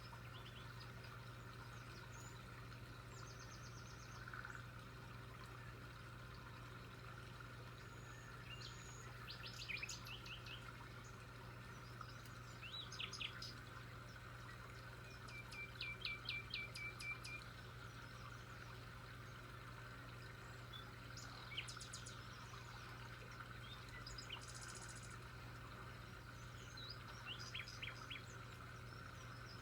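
Faint birdsong: scattered chirps and short runs of quick repeated notes, the longest run about halfway through, over a steady low hum.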